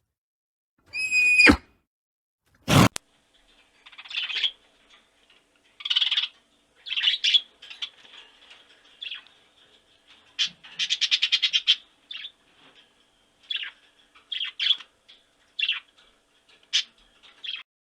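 Bird calls: a loud falling cry about a second in and a sharp crack near three seconds. Then a long run of short high chirps and calls, with a fast trill around the middle.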